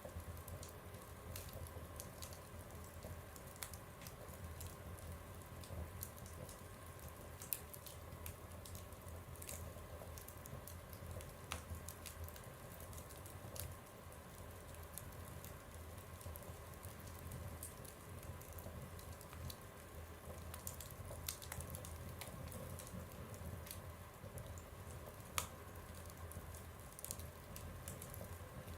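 Fire burning in a stove, crackling with irregular small snaps and occasional sharper pops over a low steady hum.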